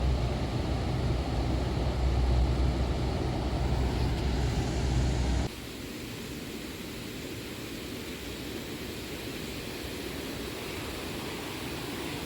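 Steady rush of a flood-high river pouring over a dam, with a heavy low rumble underneath. About five seconds in, the sound cuts abruptly to a quieter, hissier rush of water.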